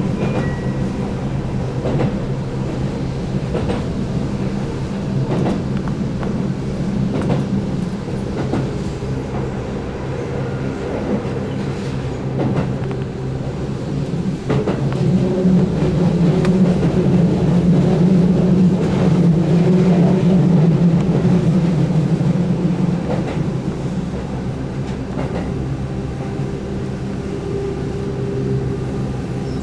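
Keihan 8000 series electric train running: the steady hum of its DC traction motors with scattered wheel clicks over rail joints. The hum swells louder for several seconds in the middle.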